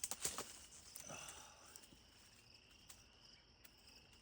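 A few short rustles and knocks in the first second or so, from a rock being shifted by hand off a snake among ground litter, then faint steady insect chirring in the background.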